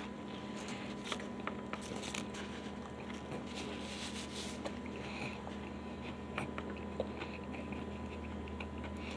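A man biting into and chewing a crispy fried chicken sandwich, with faint scattered crunches and mouth clicks. A steady hum runs underneath.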